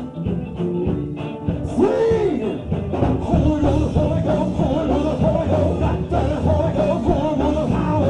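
Live gospel band playing an upbeat praise number, with bass and drums driving a steady beat and voices singing over it.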